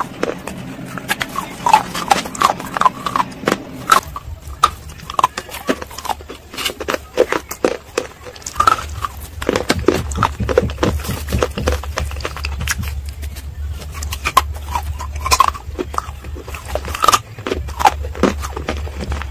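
Close-up chewing of baked clay pot pieces and slate coated in a creamy paste: a dense, irregular run of sharp crunches and clicks. A low steady hum comes in about four seconds in.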